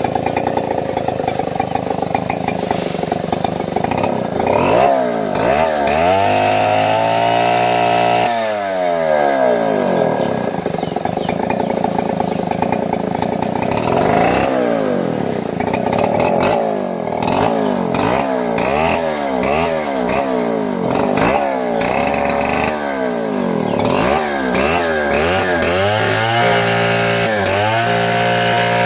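Two-stroke chainsaw running, its engine pitch repeatedly rising and falling as it is revved and eased off.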